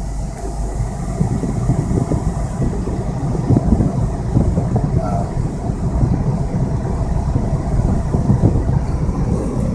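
A car driving through deep floodwater: a steady low rumble of the vehicle with water churning and surging around it.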